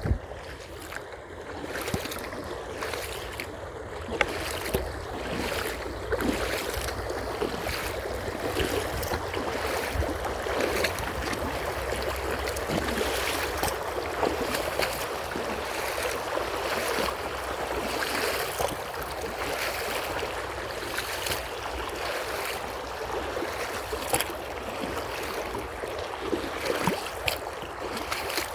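Creek water running steadily, with a regular tread of footsteps roughly one or two a second.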